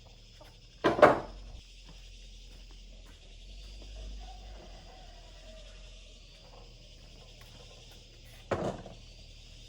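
Two sharp knocks, the first about a second in and the second near the end, like a hard object or tool being set down or struck during repair work. Under them runs a steady high-pitched hiss.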